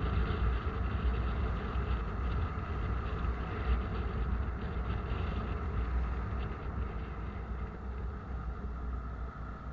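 Steady low rumble and wind noise of a moving vehicle, with wind buffeting the microphone; it eases slightly near the end.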